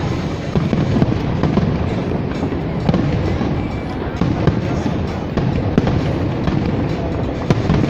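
Fireworks going off in a dense, continuous barrage of bangs and crackles, with no pause.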